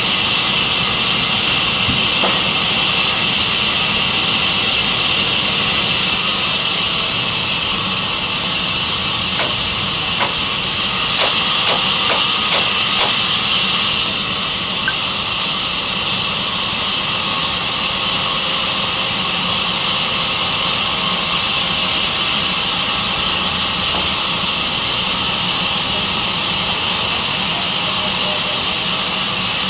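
Sawmill band saw running with a steady hissing whine, with a few light knocks about ten to thirteen seconds in.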